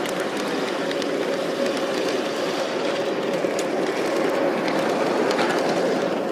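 Miniature ride-on train running along its track: a steady rumble of wheels on rail with scattered sharp clicks.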